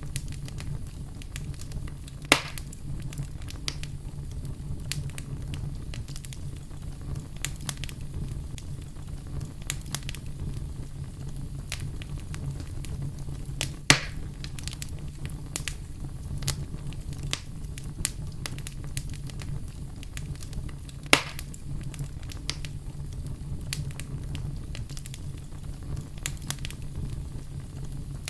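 Wood fire crackling, with a steady low rumble under frequent small snaps and three louder pops, about 2, 14 and 21 seconds in.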